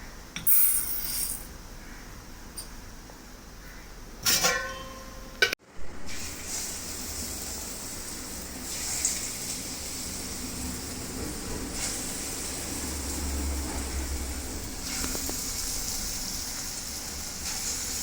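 Metal utensils clank twice, then, after a sudden break, a steady hiss of bonda deep-frying in hot oil.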